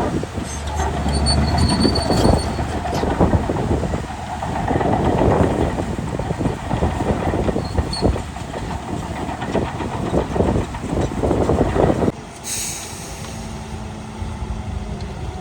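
Crawler bulldozer running with its steel tracks clanking and squealing in a dense run of metallic knocks. About twelve seconds in the clanking stops abruptly, a brief hiss follows, and a quieter steady engine hum remains.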